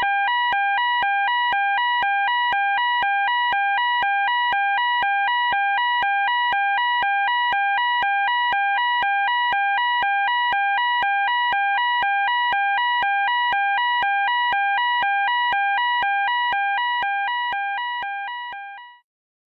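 Electronic emergency alarm sounding a two-tone hi-lo signal, switching between a lower and a higher pitch about four times a second. It fades out near the end and stops.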